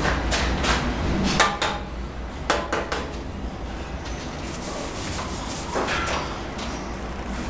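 A series of irregular scrapes and clacks of a steel trowel working cement mortar, over a steady low hum.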